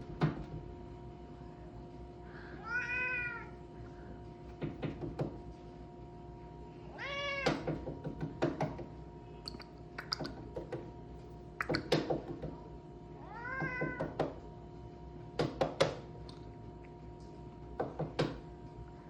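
A domestic cat meowing three times, each meow rising then falling in pitch, between clusters of short knocks and thumps. A steady hum runs underneath.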